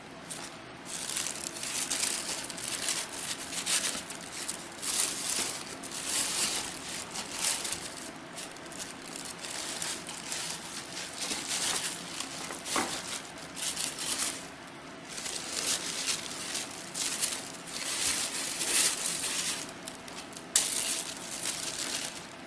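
Packaging being unwrapped and handled, in irregular crinkling and rustling bursts, with a sharp click about twenty seconds in.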